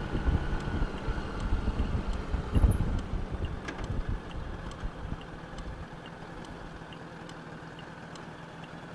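Honda Gold Wing motorcycle engine running with a steady hum while riding, wind buffeting the microphone. The wind rumble drops away about six seconds in, leaving the quieter engine note.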